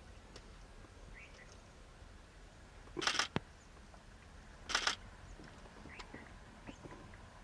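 Two quick bursts of camera shutter clicks, about three seconds in and again a second and a half later. Faint bird chirps sound in between.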